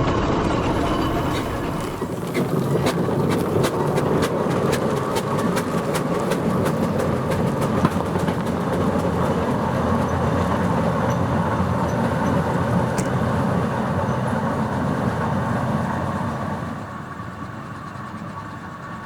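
Steam traction engine running along the road, a steady mechanical rumble with a fast run of regular sharp clanks or beats through the first half. The sound drops noticeably quieter near the end.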